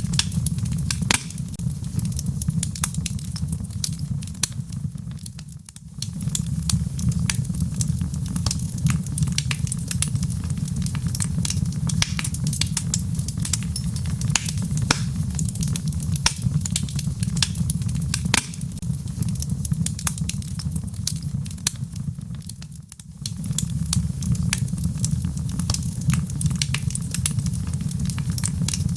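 Wood logs burning in a fireplace: frequent sharp crackles and pops over a steady low rumble of the flames. The sound dips briefly twice, about six seconds in and again near twenty-three seconds.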